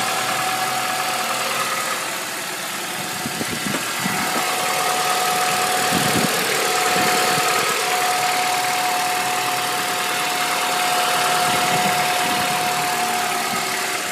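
Honda Accord engine running at idle, with a steady high whine over it and a few irregular low thumps a few seconds in. This is the engine noise that the owner is trying to show.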